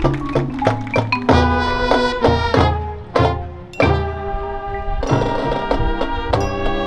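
High school marching band of winds and drumline playing with sharp accented hits over held brass chords and low bass-drum strokes. The sound drops briefly about three seconds in, then comes back with a sudden loud hit.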